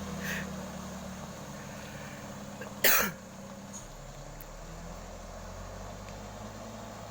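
A truck engine running low and steady, with one loud, short burst about three seconds in.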